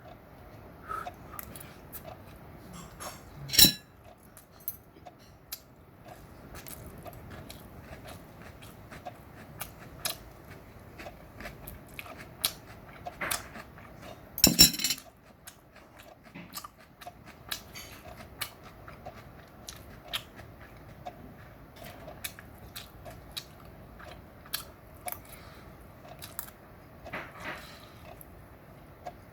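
A person chewing and biting food close to the microphone, with small wet clicks of eating and occasional clinks of cutlery on dishes. Two louder clatters come about three and a half seconds and about fourteen and a half seconds in.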